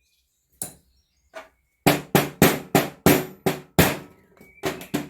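Hammer blows knocking a stuck car pedal assembly free: two light taps, then a quick run of about a dozen sharp strikes, roughly three a second.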